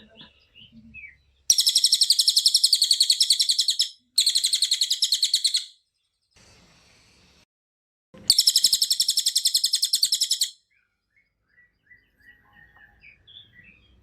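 A cililin bird singing three long, rapid trills of fast-repeated, high, sharp notes, with short gaps between them. A few soft chirps follow near the end.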